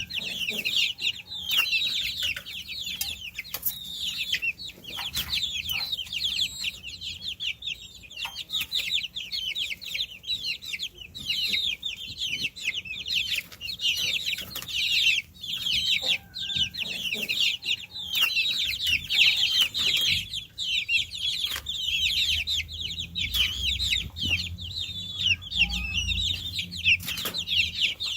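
A brood of baby chicks peeping continuously: many short, high-pitched chirps falling in pitch, overlapping one another.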